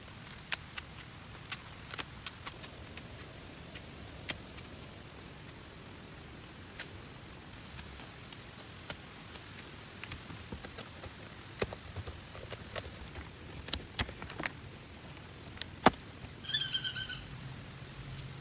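Outdoor forest ambience: a steady high-pitched drone, with scattered sharp ticks and taps throughout and a brief rapid chirping animal call near the end.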